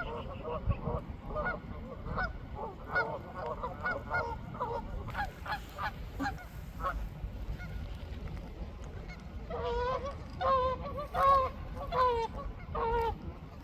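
A large flock of waterfowl calling: many short, overlapping honking calls, with a run of louder calls in the last few seconds.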